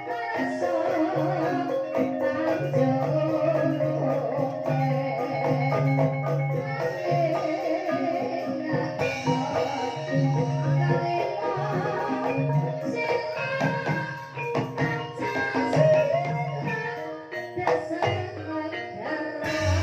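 Banyumasan gamelan ensemble playing a gending in ebeg style: struck mallet instruments carry the melody over a steady low pulse and drum strokes.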